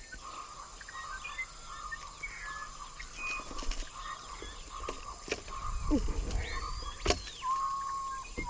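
Amazon rainforest ambience: insects buzzing steadily in a pulsing band, with short whistled bird calls and gliding notes over it. A few sharp knocks, the loudest about seven seconds in, with a low rumble around them.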